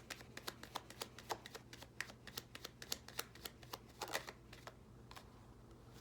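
A deck of tarot cards being shuffled by hand: a quick run of card flicks, about four or five a second, that ends in a longer rustle about four seconds in, followed by only a couple of stray taps.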